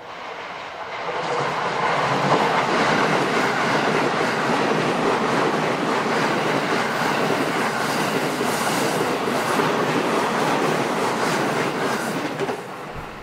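A train passing close by, loud and steady, with clicking from the wheels in its second half; it builds up over the first second and cuts off abruptly at the end.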